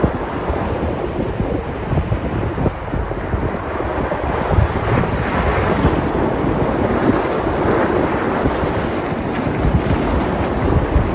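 Sea surf: waves breaking and washing onto the shore, swelling louder in the middle of the stretch, with wind rumbling on the microphone.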